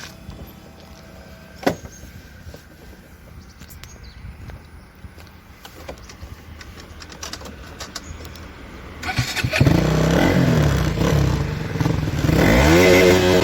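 A KTM Duke 200's single-cylinder engine. A sharp click about two seconds in stands over a low rumble. About nine seconds in the engine becomes loud, and near the end it revs up with a rising pitch under full throttle.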